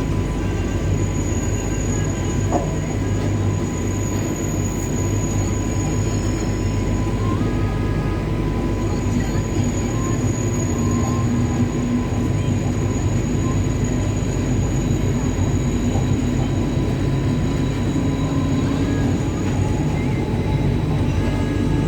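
Train running: a steady rumble with several thin, steady high whines over it.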